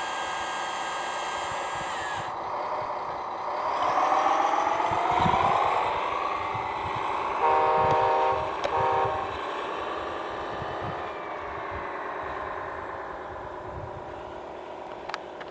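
Scale RC Hayes HD logging truck's drivetrain, a cordless-screwdriver motor and gearbox, whining as the truck drives, rising in pitch as it speeds up a few seconds in, then easing off near the end. About halfway through a horn sounds twice, one long blast and one short.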